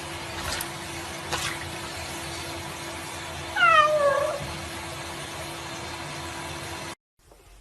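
A cat meows once, a single loud call that falls in pitch, over a steady rushing noise, with a few light clicks before it. The sound cuts off abruptly near the end.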